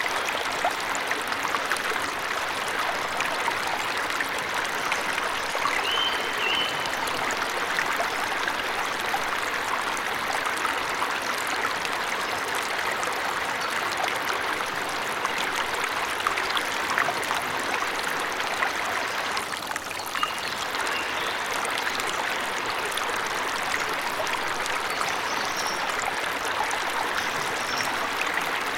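Forest waterfall: water splashing and rushing steadily, with a few brief bird chirps about six seconds in, around twenty seconds and near the end.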